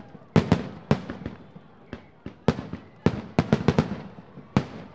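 Fireworks display: about a dozen sharp bangs of bursting shells in quick succession, each trailing off in crackle and echo, with a dense cluster of bursts in the second half.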